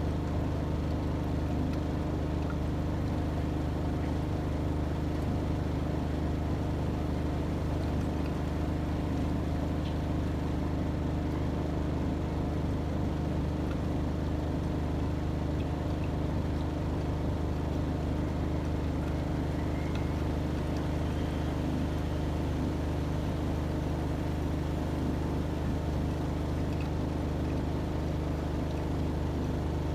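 AEG Öko-Lavamat 73749 washing machine running with a steady motor hum, holding one speed with no pauses.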